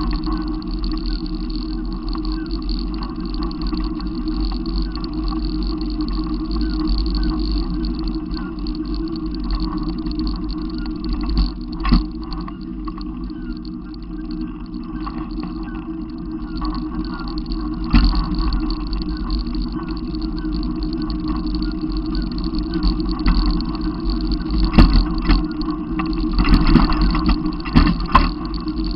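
Steady engine and road noise of a running vehicle, with a sharp knock about twelve seconds in, another about eighteen seconds in, and a cluster of knocks near the end.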